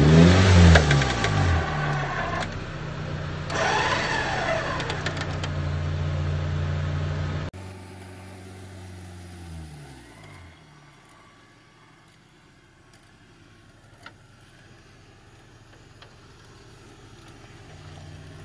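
Off-road SUV's engine revving hard, its pitch rising and falling several times, while the vehicle sits stuck in mud on a tow strap, then running steadily. About seven seconds in the sound drops suddenly; a fainter engine then winds down and stays low.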